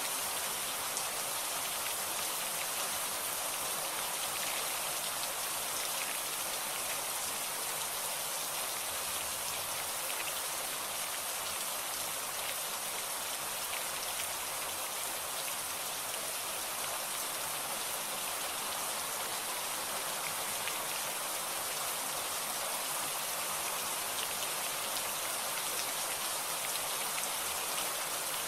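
Steady rain falling and pattering on surfaces, an even hiss with tiny drop ticks and no thunder.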